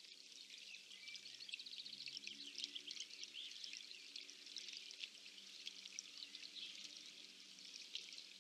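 Faint, steady trickling and splashing of water, with a few faint bird calls over it.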